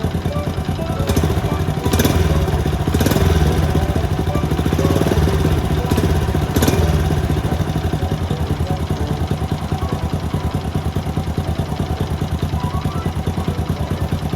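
Honda Little Cub's single-cylinder four-stroke engine running through a monaka-type aftermarket muffler, with rapid, even exhaust pulses. It is a little louder between about two and seven seconds in, then settles to a steady run.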